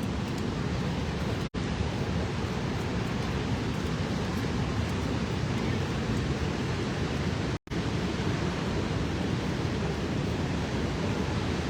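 Steady roar of a waterfall, a dense even rush of water with no distinct events, cut off briefly twice.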